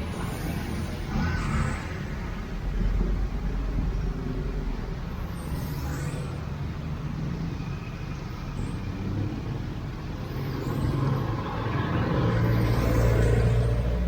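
Street traffic: motor vehicle engines running and passing, with one vehicle growing louder about twelve seconds in.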